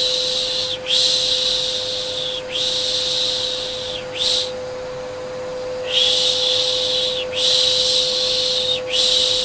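Repeated 'shhh' shushing for calming a baby, long hisses of about a second and a half each in groups of three with a short 'sh' at the end, a pause of about a second and a half between groups. Under it runs a steady vacuum cleaner hum.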